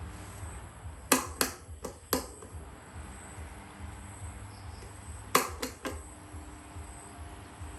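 Sharp clicks or taps in two quick groups, four and then three, over a steady low hum.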